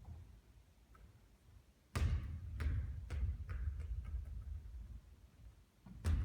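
A basketball comes down hard, then bounces again several times, the bounces coming quicker and quicker as it settles. Another hard bounce comes near the end.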